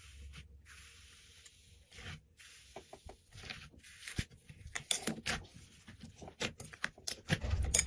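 Slime being handled and squished by hand: a soft hiss at first, then a growing run of small sharp crackles and pops that gets denser toward the end.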